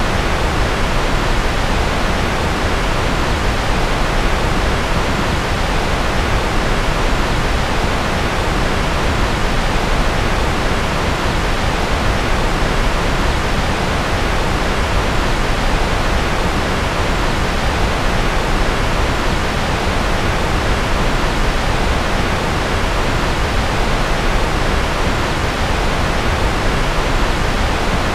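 Steady generated white noise: a continuous, even hiss that never changes, its very highest pitches a little softer than the rest.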